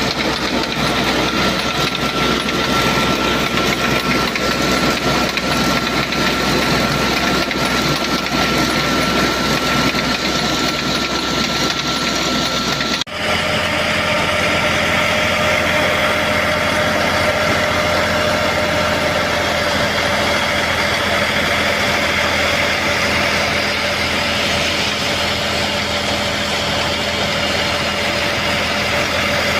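Tractor engine running steadily while hauling in a beach seine net. About thirteen seconds in the sound cuts sharply and carries on with a different steady hum.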